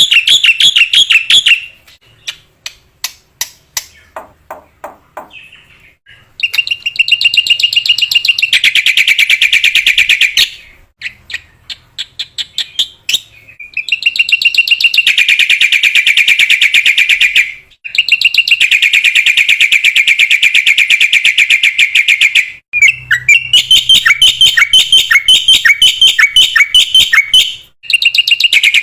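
Black-winged starling (jalak putih) singing in long, rapid runs of repeated chattering notes, each run lasting several seconds, with short pauses between them and a sparser patch of separate clicks near the start.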